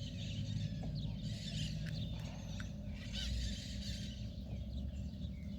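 Birds chirping and calling in many short, quick notes over a steady low hum.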